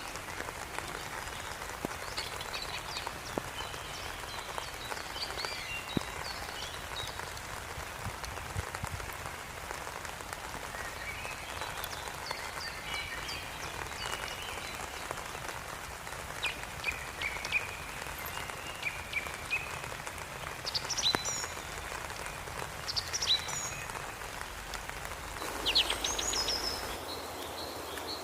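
A steady, even hiss throughout, with short bird chirps at intervals.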